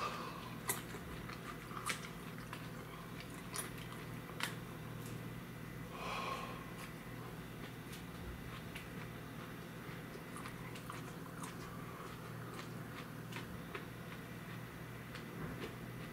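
A person chewing fresh 7 Pot Primo chili pods, with scattered wet mouth clicks and a breath about six seconds in, over a steady low hum.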